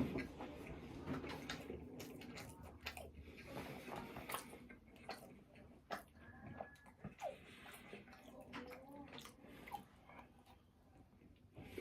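Close-miked chewing and wet mouth sounds of someone eating, with many small irregular clicks and smacks.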